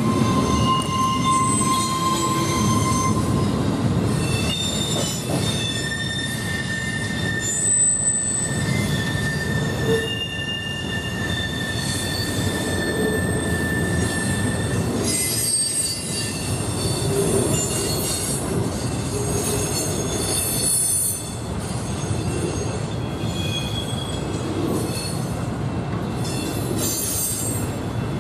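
Intermodal freight train of double-stack container cars and trailer flatcars rolling past, a steady rumble of wheels on rail with high, shifting wheel squeals coming and going throughout.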